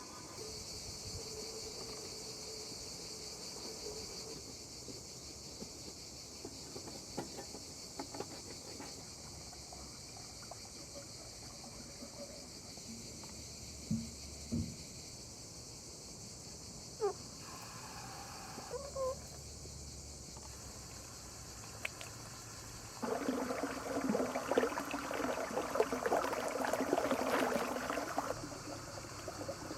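Steady chorus of crickets or other insects, with a few scattered knocks. About two-thirds of the way through, a louder stretch of dense rustling and clattering noise runs for about five seconds.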